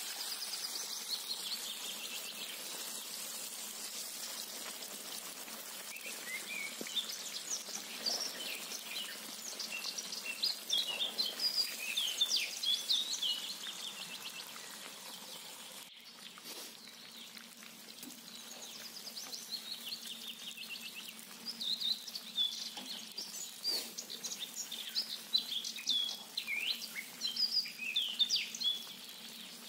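Small songbirds chirping and singing in quick repeated phrases, busiest in two spells with a lull around the middle, over a steady hiss of oil deep-frying potatoes and chicken wings in a kazan.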